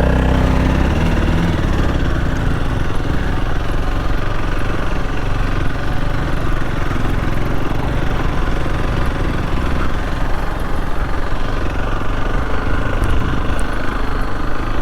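Motorcycle engine running steadily while riding an off-road trail, with a brief shift in engine pitch about a second in.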